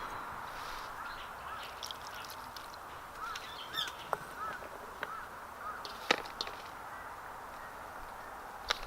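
Small birds chirping outdoors: short rising-and-falling chirps in two little bursts, about half a second in and again around three to four and a half seconds in, over a steady hiss. A few sharp clicks or knocks are heard, the loudest about six seconds in.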